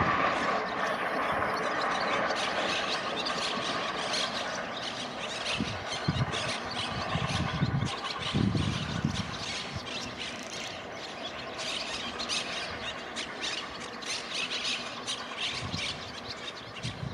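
Train in the station with metal-on-metal squealing from wheels or brakes, strongest at the start and fading, over a steady run of clicking and clattering from the wheels on the track, with a few low thumps.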